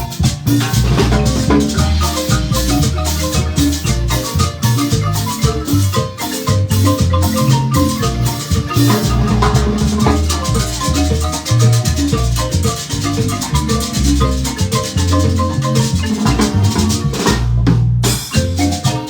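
Marimba band playing lively dance music, with a steady drum beat under the mallet melody and a brief break near the end.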